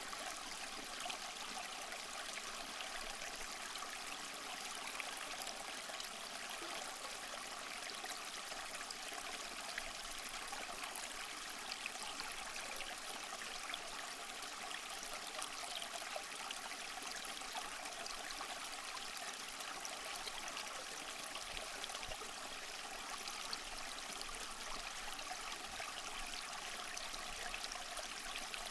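Small waterfall splashing steadily over mossy rocks: an even, unbroken rush of water with fine splashy trickling, mostly in the higher range.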